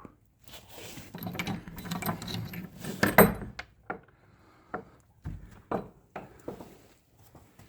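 Rustling and a run of small clicks and knocks, as objects are handled, with the loudest knock about three seconds in, then a few separate clicks and taps.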